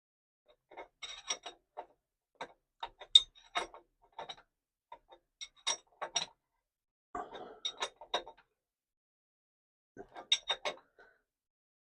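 A metal spanner tightening a plug that has a new washer: short bursts of sharp metallic clicks and clinks, in several groups with pauses between them.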